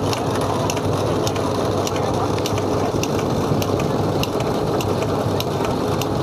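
Miniature model steam engines and the small belt-driven attachments they power, running with a steady mechanical clatter and a sharp tick about twice a second.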